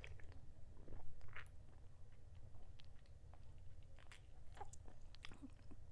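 Close-miked mouth sounds of eating and drinking: soft chewing, lip smacks and small irregular clicks, over a faint steady low hum.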